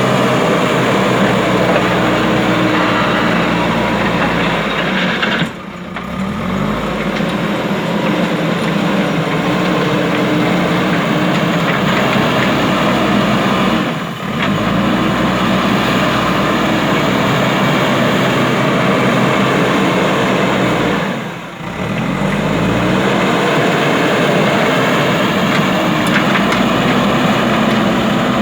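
JCB backhoe loader's diesel engine running steadily under work, its sound dropping off briefly three times before picking straight back up.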